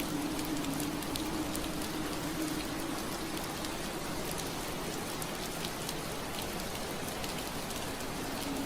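Steady rain falling against window glass, a dense even hiss with scattered small drop ticks. Underneath is a low steady hum that fades out through the middle and comes back near the end.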